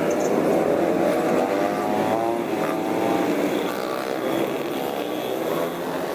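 A large vehicle's engine running steadily, its pitch rising a little about a second in.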